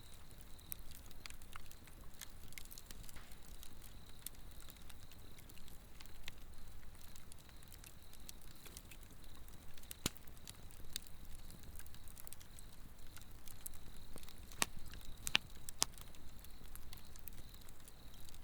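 Swedish torch log fire burning, with scattered sharp crackles and pops, a few louder pops in the second half, over a low steady rumble of flame. Insects keep up a steady high-pitched trill.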